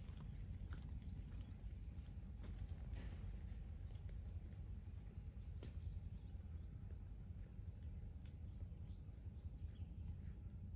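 A small bird chirping, short high notes repeated about twice a second for most of the clip, over a faint low background rumble.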